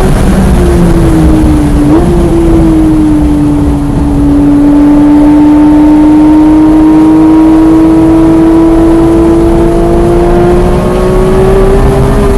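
Porsche 991 GT3's naturally aspirated flat-six at speed: the revs fall under braking, with a brief blip about two seconds in, then climb slowly and steadily as the car accelerates out of the corner, over steady road and wind noise.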